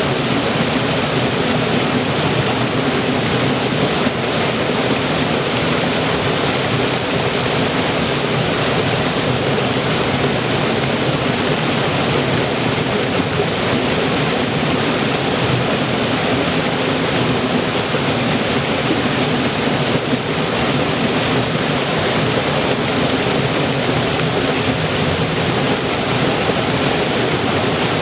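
River water flowing and rushing steadily, an even full-bodied hiss and burble with no breaks.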